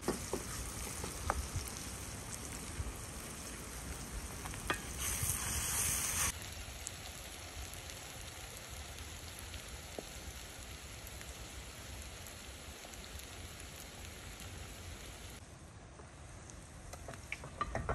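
Sliced onions frying and sizzling in a pot over a wood fire, with a spatula stirring and knocking against the pot. The hiss swells for about a second around five seconds in, then settles to a steady sizzle.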